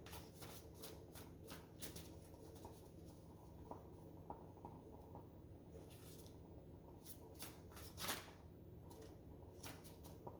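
A deck of oracle cards being shuffled and handled, faint. A quick run of soft card snaps gives way to scattered clicks, with a longer rustle about eight seconds in.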